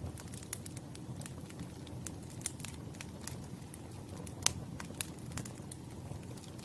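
Campfire burning, with a steady low rumble of flames under irregular sharp crackles and pops of burning wood, the loudest pop about four and a half seconds in.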